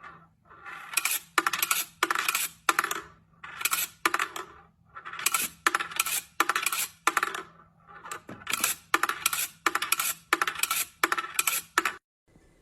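Repeated clinking and rattling of small hard objects, coming in short clusters of sharp clicks about twice a second.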